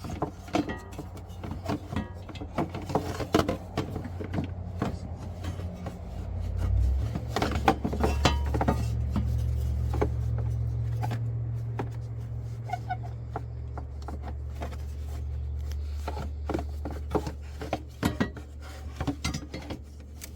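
Scattered clicks, knocks and light clatter of car parts and tools being handled and fitted under the hood. A low steady hum comes in about six seconds in and fades away toward the end.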